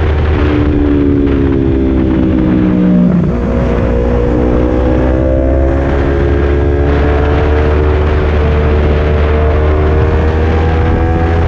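Kawasaki Z250 engine with a Leovince Cobra aftermarket exhaust running loud. Its note falls for about three seconds, then climbs again and holds steady over a constant low rumble.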